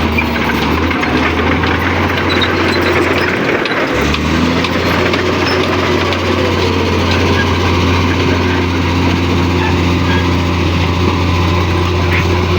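Komatsu D58P bulldozer's diesel engine running steadily with a low drone that dips briefly a little under four seconds in.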